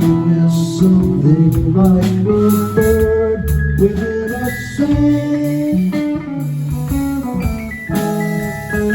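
Live band playing an instrumental jam: guitar lines weaving over bass and drums.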